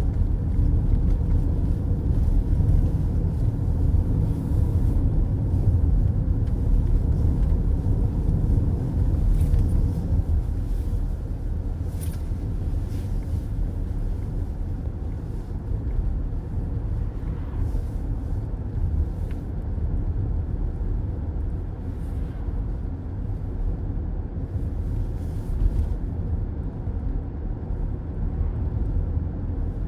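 Steady low road rumble of a car cruising on a highway, heard from inside the cabin: tyre and engine noise.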